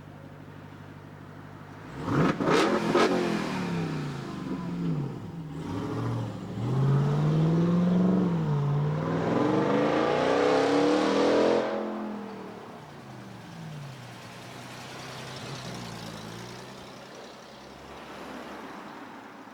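A car's engine idles, then is revved hard about two seconds in with a couple of sharp cracks. It accelerates away, the pitch climbing and dropping several times as it shifts up through the gears. The sound falls away after about twelve seconds, leaving a quieter engine drone.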